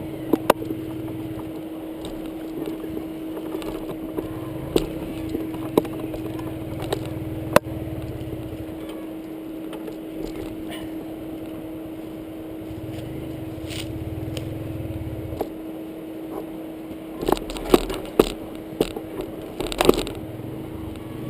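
Dirt bike riding with its engine running as a steady hum, with many sharp knocks and clicks over it, most of them bunched together near the end.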